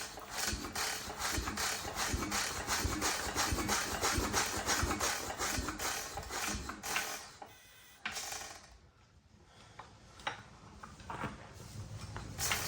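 Novo hit-and-miss engine being turned over by hand on a start attempt without catching: a rapid, even mechanical clicking, about four clicks a second, that dies away about seven seconds in and then comes back more unevenly.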